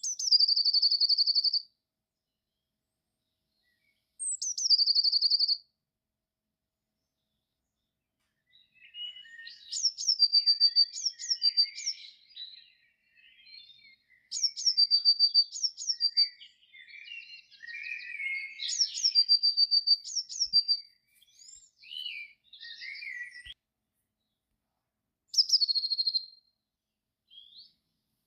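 Blue tit singing: a short high note falling into a fast, even trill, repeated several times with pauses between. From about nine seconds to about twenty-four seconds the trills come thick and fast, mixed with lower chattering calls.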